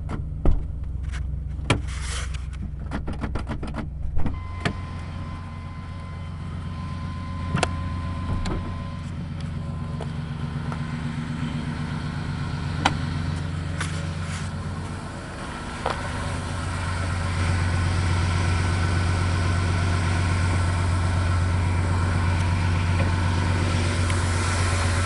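1995 Chevy Cheyenne C2500's 5.7-litre 350 small-block V8 with throttle body injection idling steadily shortly after a cold start, with scattered clicks and clunks from working the hood open. The idle grows louder about two-thirds of the way in.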